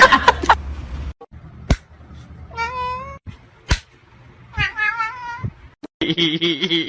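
A cat meowing twice, two drawn-out wavering calls about two seconds apart, with a couple of sharp clicks around them. Near the end a different steady droning tone begins.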